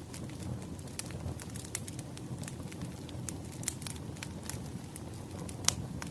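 A crackling wood fire: a steady low rumble of flames with frequent irregular sharp pops of burning firewood, one louder pop near the end.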